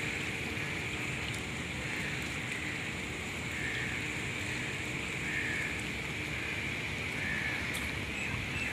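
Heavy rain falling steadily on wet paving and grass, an even hiss with no breaks.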